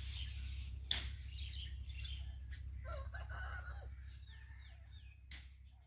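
Fowl calling: a burst of calls a little past the middle and a few short downward-gliding chirps, over a steady low rumble. Sharp clicks come at the start, about a second in, and near the end, and the sound fades out at the close.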